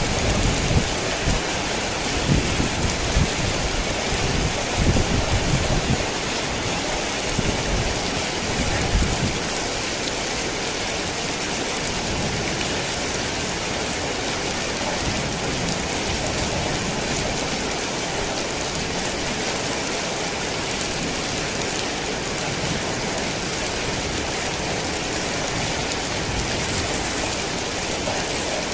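Heavy rain falling steadily. A low rumble of thunder runs under it for the first several seconds and dies away about a third of the way in.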